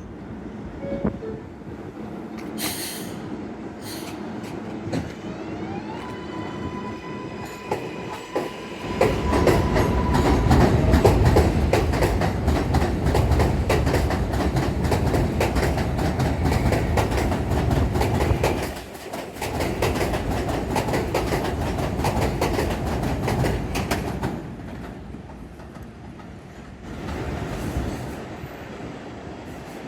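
R142A subway train pulling out: its propulsion whine climbs in pitch, then gives way to loud running noise from the wheels on the rails, with many rapid clicks. The noise eases off near the end.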